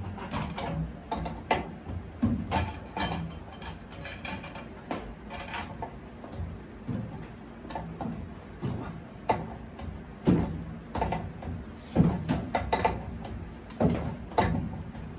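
Irregular clicks and knocks of metal fittings and tools being handled while a hot water heater's flexible supply line is bent into place and its threaded connection is started, not yet fully tightened.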